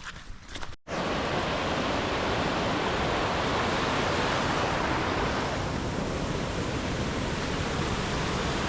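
Footsteps for under a second, cut off suddenly, then a steady, even rushing noise with no rhythm.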